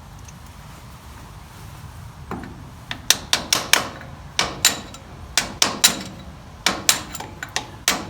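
Metal tapping on metal: the lift arm pin of a John Deere 1640's three-point linkage being knocked into its hinge with a makeshift striker instead of a hammer. The first strike comes about two seconds in, and the rest follow in several quick bursts of a few sharp, ringing strikes each.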